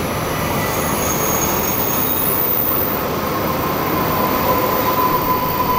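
JR Hokkaido 733-series electric commuter train moving at a station platform: a steady rumble and hiss of the running train, with a thin high tone that grows stronger in the second half.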